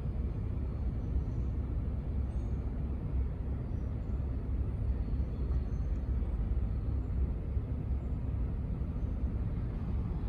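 Steady low rumble without distinct events or changes.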